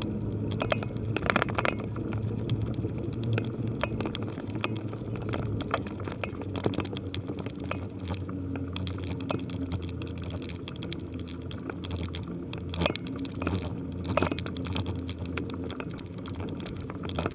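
Bicycle riding: irregular clicking and rattling from the bike and its parts, over a steady low rumble of tyres and wind.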